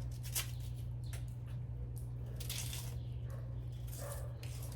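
Knife and hands working cooked cassava, pulling out its stringy core: a sharp click, then a short scrape about halfway through, over a steady low hum.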